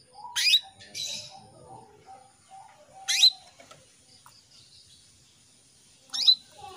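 Female canary giving short, sharp calls, three of them about three seconds apart, the lure call used to draw a male canary into song.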